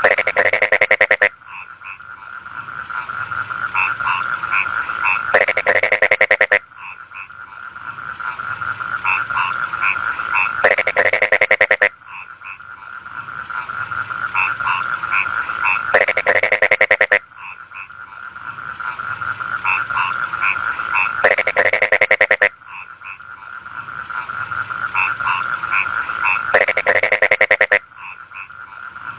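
Rice-field frogs croaking in chorus. About every five seconds a loud, rapid run of pulsed croaks lasts about a second, with softer croaks building up between the runs, all over a steady high-pitched drone.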